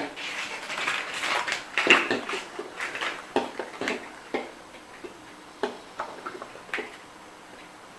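Irregular light knocks and clicks of hard objects being handled, with some rubbing and shuffling in the first few seconds and sparser single clicks after that.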